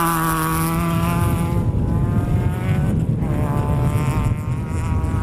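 Nissan Micra K11 rally car's engine running hard at high revs on a loose dirt stage, over a low rumble from the car. The engine note drops out briefly about a second and a half in and again near three seconds, then picks up again.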